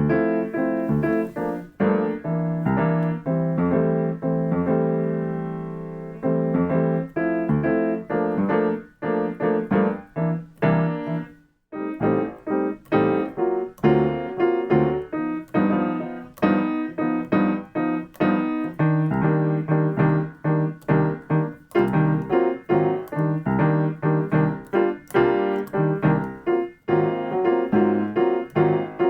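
Piano practising jazz comping rhythm patterns. Chords are held for the first few seconds, then struck in short rhythmic stabs, with a brief stop about eleven seconds in.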